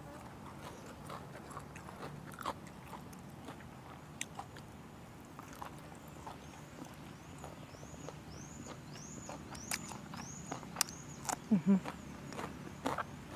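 Close-up mouth sounds of chewing and biting fresh chili and naem, fermented pork, heard as small wet clicks and crunches. From about halfway, a bird calls in the background with a run of repeated rising-and-falling chirps, about two a second. A brief low hum comes near the end.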